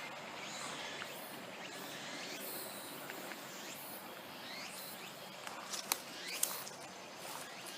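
Forest ambience with short rising chirps repeating over a steady background hiss, and two sharp clicks about six seconds in.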